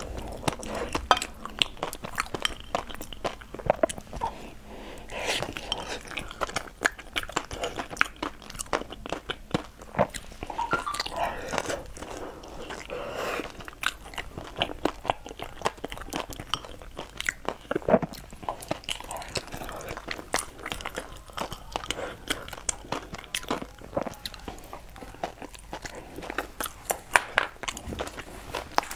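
Close-up eating sounds: chewing with many small, irregular wet clicks and smacks of the mouth.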